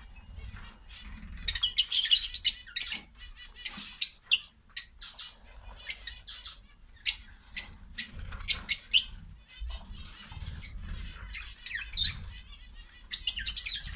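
Small birds chirping: short, sharp, high chirps coming in irregular quick clusters, with a few brief sliding calls.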